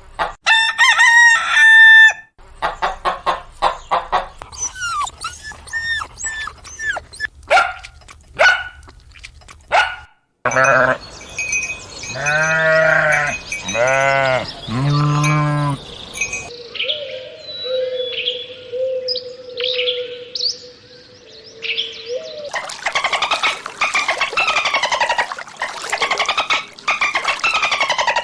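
Chickens calling in a series of short clips: clucking, a rooster crowing three times in the middle, and a dense chorus of high chirps near the end.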